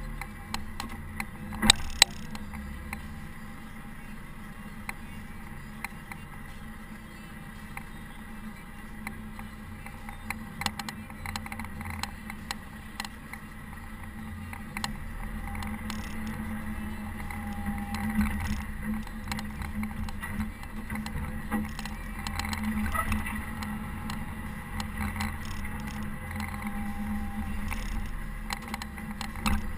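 Caterpillar TH330B telehandler's diesel engine running steadily while it plows snow, with scattered clicks and knocks and two sharp loud knocks about two seconds in.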